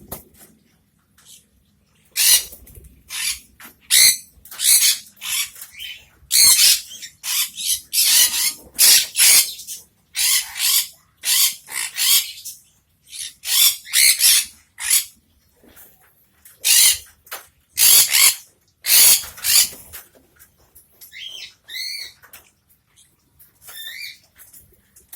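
Small parrots in a colony cage screeching, one harsh call after another with short gaps between them. About three-quarters of the way through the screeches give way for a few seconds to shorter, thinner pitched chirps.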